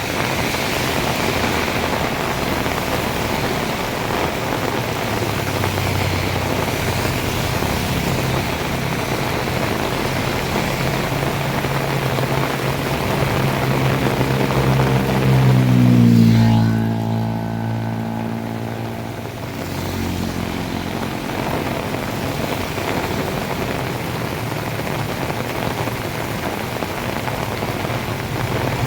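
Heavy rain pouring steadily, with a motor vehicle's engine running alongside; the engine grows louder and passes close about halfway through, its pitch dropping as it goes by. The rain hiss briefly thins for a few seconds just after the pass.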